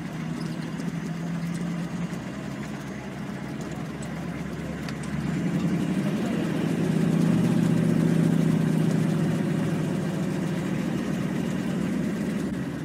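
Competition 4x4's engine running at low revs as the vehicle creeps forward, heard from on board. The engine gets louder about five seconds in and eases off again near the end.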